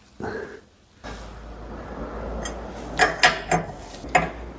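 Metal hydraulic parts and fittings being handled on a workbench: four sharp clanks in the second half, over a steady low hum.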